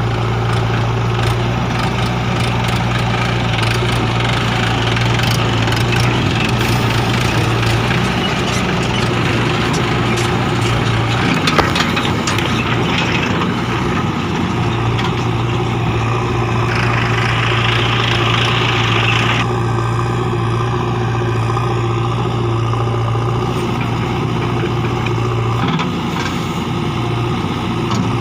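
Heavy diesel engine running steadily with a strong low hum that changes briefly near the middle. A higher-pitched noise joins for about two and a half seconds about two-thirds of the way through.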